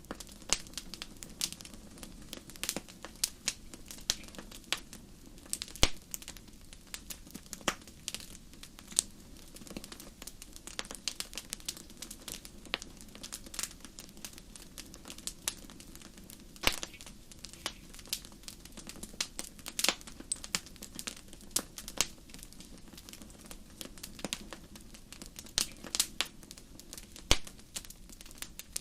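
Fireplace fire crackling: irregular sharp pops and snaps, several a second, over a low steady rumble of the flames, with a few louder pops scattered through.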